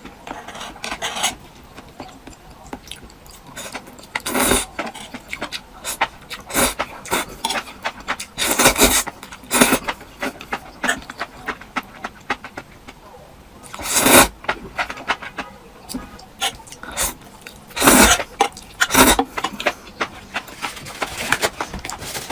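Close-miked eating sounds: rapid chewing and mouth clicks, broken by several louder, half-second slurps or sharp breaths.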